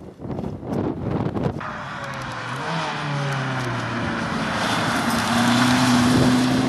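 Rally car engine pulling hard, its pitch climbing slowly as it accelerates, over a rush of road and wind noise that grows louder toward the end. The first second and a half is gusty wind buffeting the microphone.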